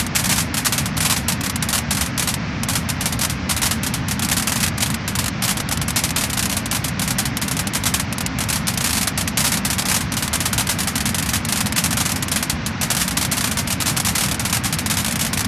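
Wood fire crackling and popping: dense, irregular small crackles over a steady low rushing noise.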